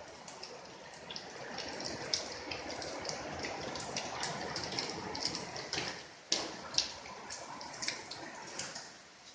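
Rain falling: a steady hiss with many sharp drops ticking close by. The rain swells for a few seconds in the middle and eases near the end.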